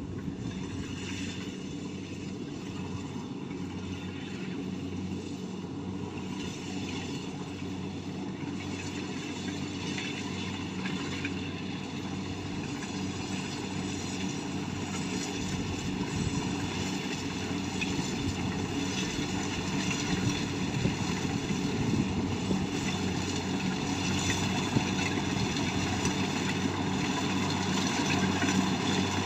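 Kubota combine harvester's diesel engine running steadily while harvesting, a continuous engine hum with machinery noise that grows gradually louder.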